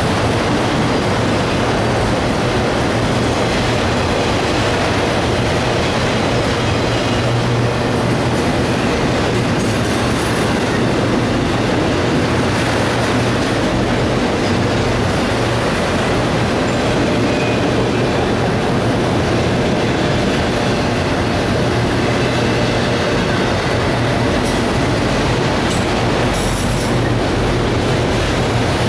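Empty autorack freight cars rolling past, the wheels on the rails making a loud, steady rumble throughout.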